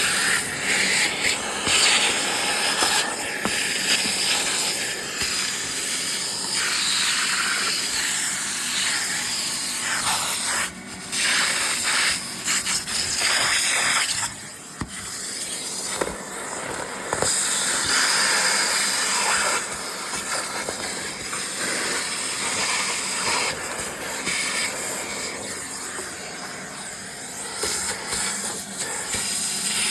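Vacuum cleaner running steadily with a loud rushing hiss, its level shifting and briefly dipping a few times while it sucks up debris.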